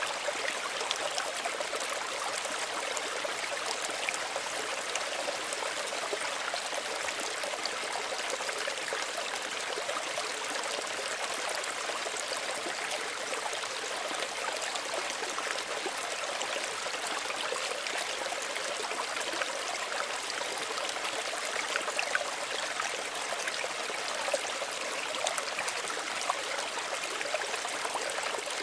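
Small stream of running water, a steady gentle rush with many small trickling splashes.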